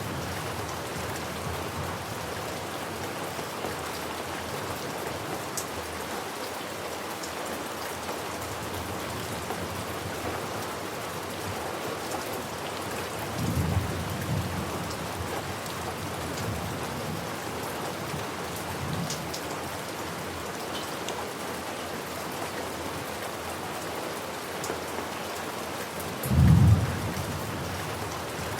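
Steady heavy rainfall with thunder: a low roll of thunder about halfway through and a louder, short thunderclap near the end.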